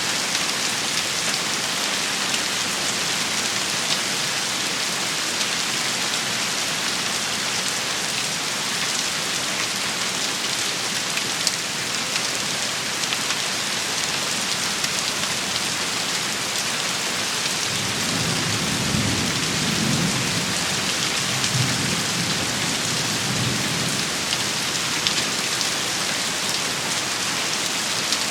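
A heavy rain shower falls steadily, with sharp individual drops pattering on a surface. About two-thirds of the way through, a low rumble of thunder rolls for several seconds.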